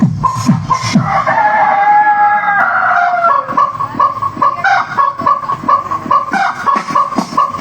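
A rooster crows once, a single drawn-out call of about two seconds starting about a second in, dropping in pitch at the end. It plays over background music with a steady beat.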